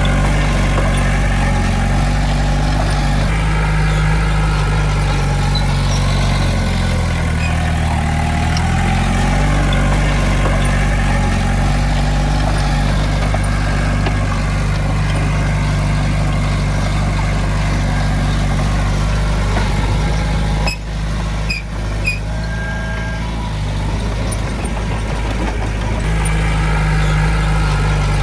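Heavy diesel engine of earthmoving machinery running steadily under load, its pitch dipping and rising a few times as the throttle changes. There are two short breaks in the sound about three-quarters of the way through.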